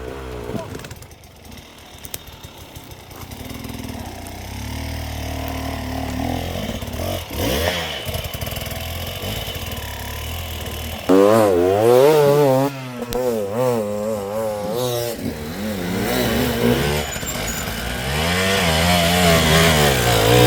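Enduro dirt bike engines revving up and down in quick bursts as the riders pick their way over steep, technical ground. About halfway through the engine note suddenly gets much louder and keeps rising and falling.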